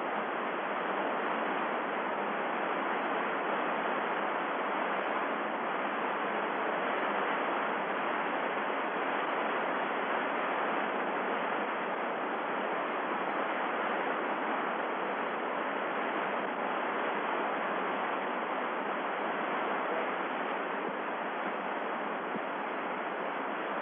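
Steady radio static hiss from an open HF air-to-ground channel carrying no voice, the spacecraft's communications switched over from UHF to HF. The hiss holds at an even level throughout.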